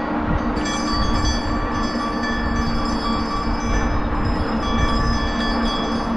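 Bicycle rolling over rough, broken road pavement: a steady rumble and rattle carried through the mounted camera.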